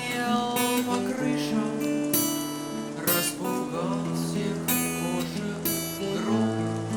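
Acoustic guitar strumming chords, the strokes coming about once a second and the chords ringing on between them.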